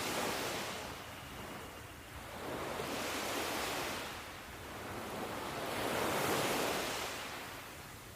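Ocean surf washing in waves, each swell rising and falling away, with the peaks coming about every three seconds.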